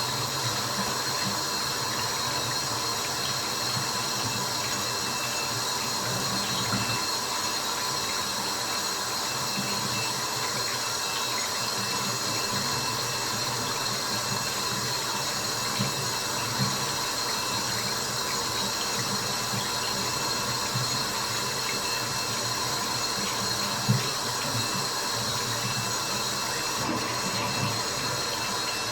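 Steady water noise of running and dripping water, with a few brief louder drops standing out, the loudest about three quarters of the way through.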